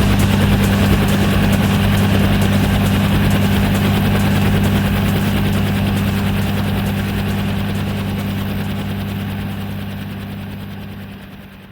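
Helicopter running in flight, a steady low drone with a fast rotor beat, fading away near the end.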